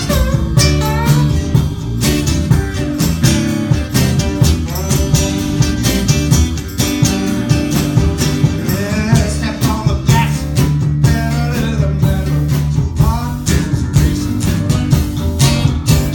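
A live band playing a blues-rock tune, with guitar over a bass line and steady drums.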